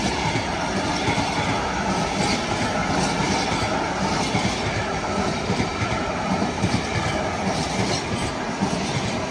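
Freight train of empty intermodal container flat wagons rolling past on the nearest track: steady, loud noise of wheels on rail with clatter from the wagons.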